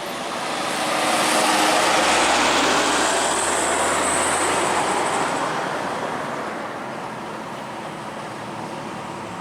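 Heavy truck driving past on the road: engine and tyre noise swell to a peak about two seconds in, then fade away over the next few seconds.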